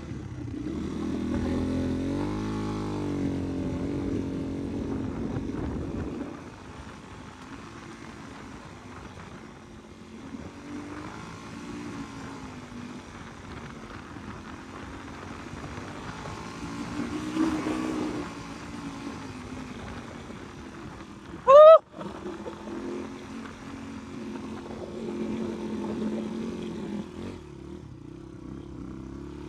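Dirt bike engine revving as it pulls up a steep dirt hill, loud and varying in pitch for the first six seconds, then running lower. About 22 seconds in comes one short, very loud chirp rising in pitch.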